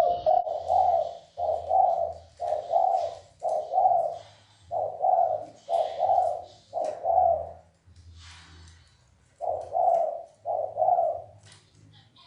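Spotted dove cooing: a series of low coos about one a second, breaking off for a couple of seconds about two-thirds through and then resuming with two more.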